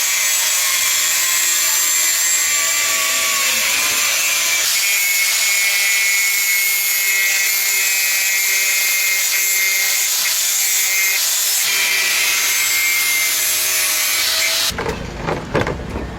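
A power grinding tool runs steadily against the work, giving a loud rasping grind with a high whine. It stops abruptly near the end.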